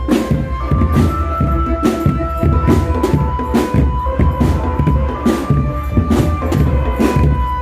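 Drum band playing: busy drumming under a melody of held notes that steps from pitch to pitch.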